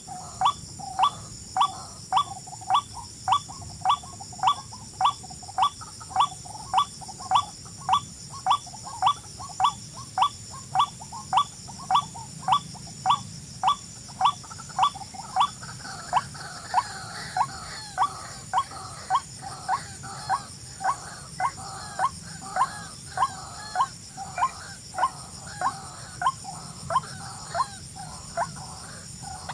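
A bird giving a sharp, clipped call over and over, about two calls a second in a steady rhythm, over a constant high insect drone. From about halfway through, softer chattering calls from other birds join in.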